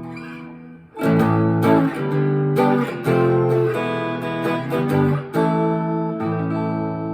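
Harley Benton SC-DLX electric guitar with its humbuckers coil-split, played through a Boss Katana MKII amp on the clean channel with a little reverb, strummed with a thin pick. A chord dies away, then about a second in a run of strummed chords starts, changing several times, and it ends on a held, ringing chord.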